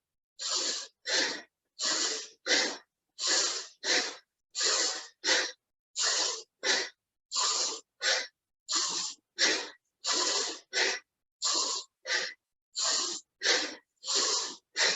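Fast, forceful rhythmic breathing: sharp inhales and exhales alternating without pause, about one full breath cycle every 1.3 seconds, paced to a sped-up cat-cow spinal flex.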